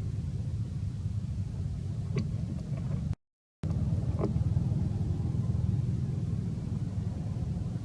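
Steady low rumble, cut by a brief gap of silence about three seconds in, with a few faint short clicks.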